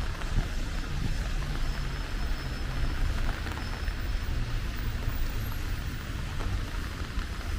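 Rainy street ambience: a steady wash of rain and traffic noise under a low engine hum that shifts slowly in pitch.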